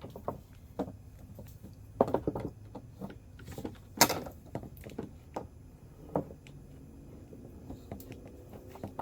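Scattered light knocks and clicks from hands handling wires and small parts, with the loudest knock about four seconds in.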